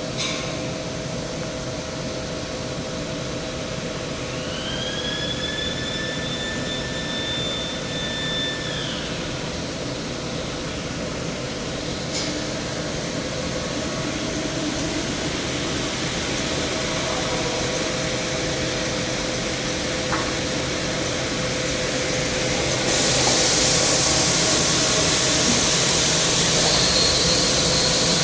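Industrial wide-belt sanding machine running with a steady hum. Early on, a whine rises and holds for about four seconds before fading; about three-quarters of the way through, a louder high hiss sets in suddenly and stays.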